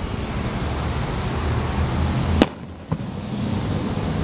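Fireworks going off: a rushing hiss builds and ends in one sharp crack about two and a half seconds in, followed by a fainter pop, over a steady low rumble.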